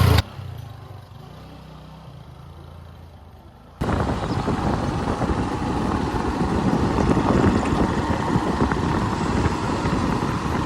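A harvesting machine's engine running. For the first few seconds it is a quiet, low hum. About four seconds in it switches abruptly to a much louder, rougher engine noise that continues steadily.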